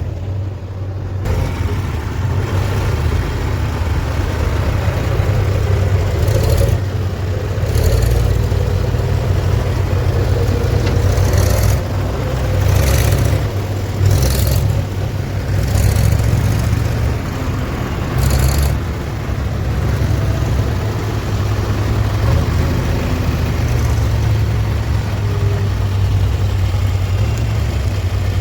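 Heavy diesel machinery engine running steadily, with several brief louder surges in the middle.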